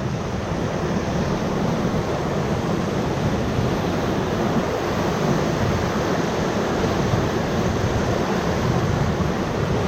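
Whitewater rushing steadily around a raft as it surfs a river wave.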